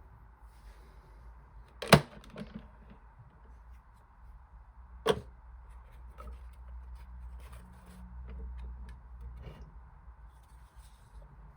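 Two sharp clicks about three seconds apart, with lighter ticks between them, over a low steady hum: a toy washing machine being handled.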